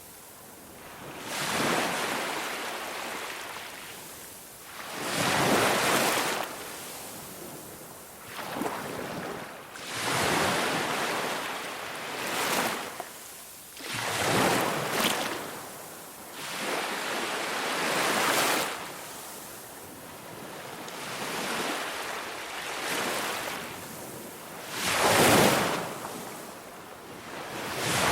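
Ocean surf: waves breaking and washing in, a rushing noise that swells and fades every few seconds.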